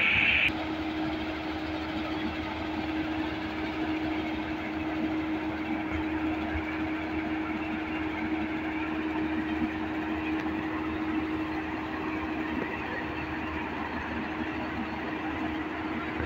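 John Deere tractor engine running steadily with a constant hum. A loud high-pitched tone stops abruptly about half a second in.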